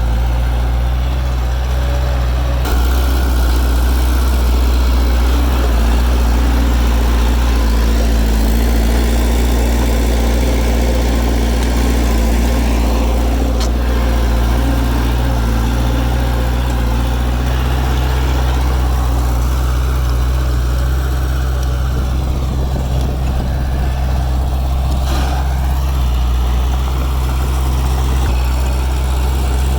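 Heavy diesel engine of earthmoving machinery running steadily with a deep, even hum. It gets louder and fuller about three seconds in.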